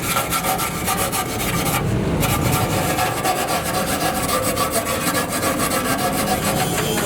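Rapid, continuous rubbing and scraping strokes of a hand tool worked against a hard surface, with a brief break about two seconds in.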